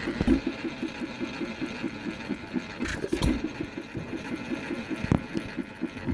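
Fairbanks Morse 1 1/2 hp dishpan hit-and-miss engine running on battery-and-coil ignition: a fast, even mechanical clatter, broken about every two seconds by a heavier thump as it fires and then coasts.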